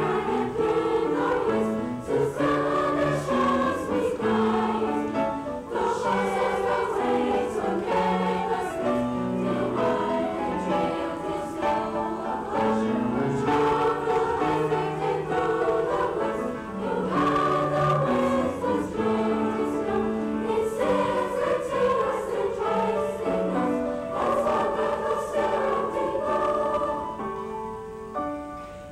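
Junior high school choir singing in several parts, the voices holding chords that change every second or so, with the level easing down on a held final chord near the end.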